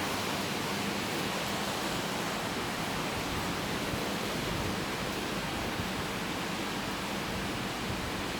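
Steady rushing water noise from an aquarium's filtration, with a faint low hum underneath.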